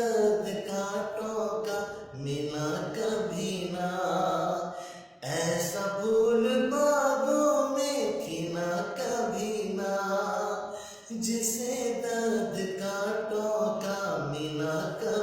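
Hindi film song: a sung vocal line over musical accompaniment, with short breaks between phrases.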